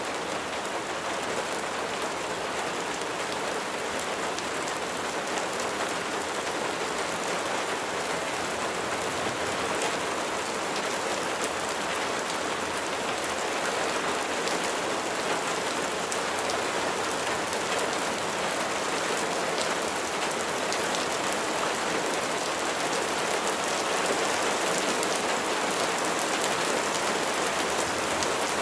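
Steady rain: an even hiss of falling water with many fine drop ticks, growing slightly louder over the stretch.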